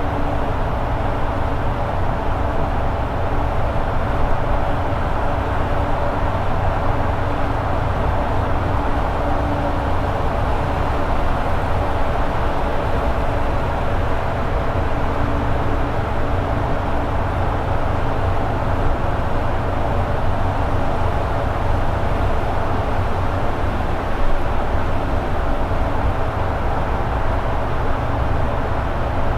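Toyota AE86 Sprinter Trueno's 4A-G four-cylinder engine holding a steady cruise at highway speed, with a constant drone and road noise and no change in revs.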